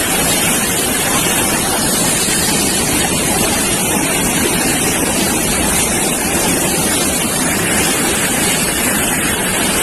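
Loud, steady rush of floodwater: a fast river torrent running at full spate.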